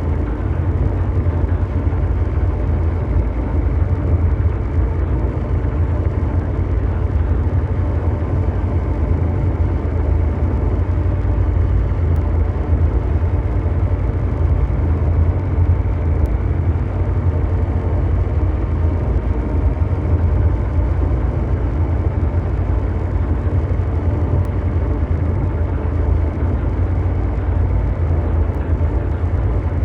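Continuous mechanical drone noise from an ambient brown-noise track: a loud, deep, steady hum with a softer hiss above it and a few faint held tones, unchanging throughout.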